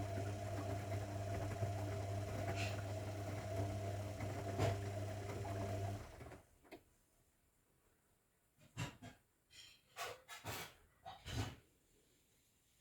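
Zanussi washing machine's motor turning the drum with a steady hum that stops abruptly about six seconds in. A few short clicks and knocks follow in the second half.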